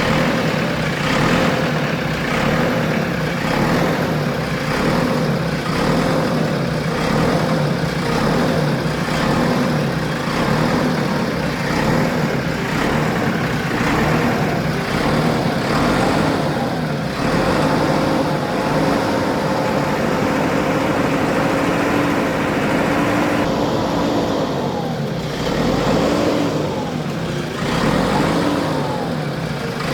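JCB backhoe loader's diesel engine running. Its note wavers up and down in the second half as engine speed changes.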